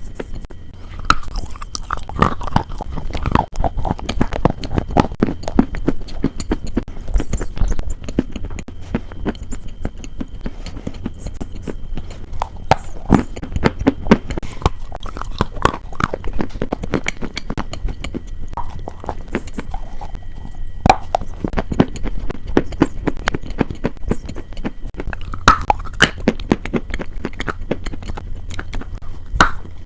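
Close-miked chewing and crunching of crisp food, a dense run of irregular crackles with louder bites now and then.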